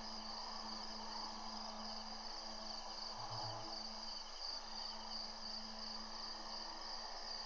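Crickets and other night insects chirring in a steady high trill, over a constant low hum.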